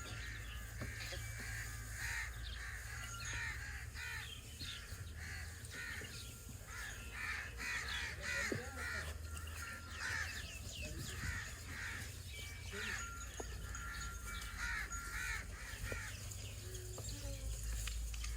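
Birds calling: a dense run of short, repeated calls, over a steady low rumble.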